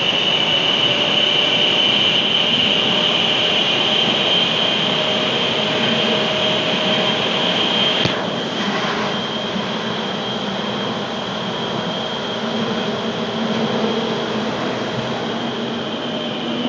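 Daegu Metro 1000-series electric train running at speed, heard from inside the car: a steady high whine from its Siemens GTO VVVF traction equipment over the rumble of the wheels on the rails. About halfway through there is a sharp click, after which the whine and the overall level drop a little.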